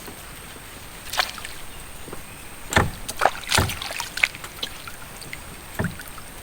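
Irregular knocks and light water splashes from a small boat being paddled or handled on a river, about six in all, the loudest a little after the middle, over a thin steady high-pitched hum.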